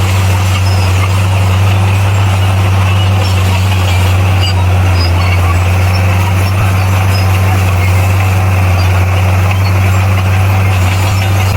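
A bulldozer's diesel engine runs at a steady, unchanging pitch as a loud low drone.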